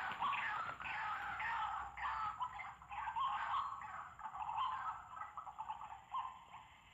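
White-breasted waterhen calling in a fast, repeated series of harsh croaking notes, about two a second, growing weaker and sparser towards the end.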